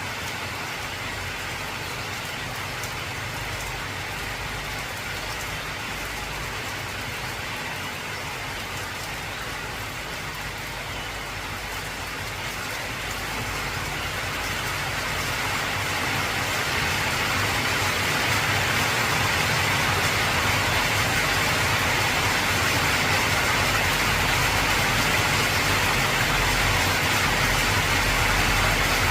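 Heavy rain falling on an old tin roof, a steady hiss of drops that grows louder about halfway through and then holds.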